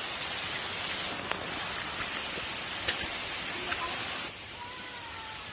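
Steady rushing noise of a rainforest waterfall, a little quieter from about four seconds in, with a few faint clicks and faint whistling calls near the end.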